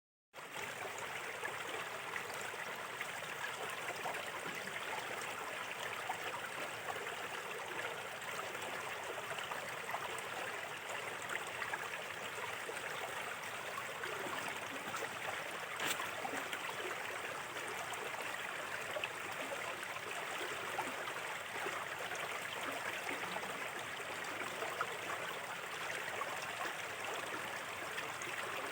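A small, shallow river flowing steadily with a constant babble and trickle of water, cutting in suddenly from silence right at the start.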